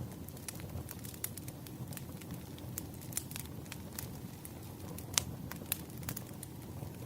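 Wood fire of burning logs crackling: frequent sharp pops and snaps over a low steady rumble, with one louder pop about five seconds in.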